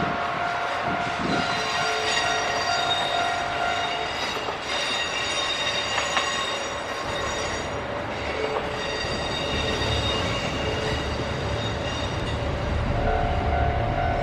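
Kintetsu train running through the station, with steady whining tones that shift in pitch several times over the rumble of the cars. The low rumble grows heavier in the second half.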